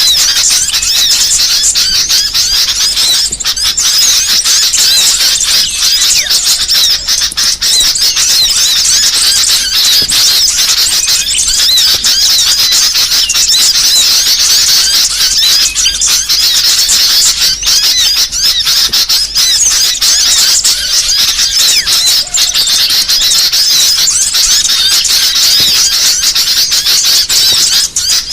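Dense, non-stop high-pitched chirping and twittering of small songbirds: a 'masteran burcil', a tutoring and lure recording of mixed small-bird calls played to teach caged songbirds or draw wild birds in.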